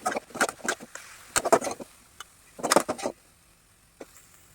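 Kitchen utensils clattering: two quick runs of clicks and knocks, then a single click near the end.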